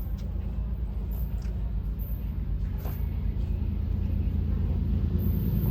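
Diesel freight locomotive approaching, a low engine rumble that grows steadily louder.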